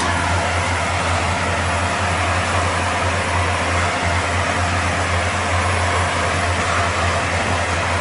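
A vehicle engine running steadily, with a constant low hum under an even hiss.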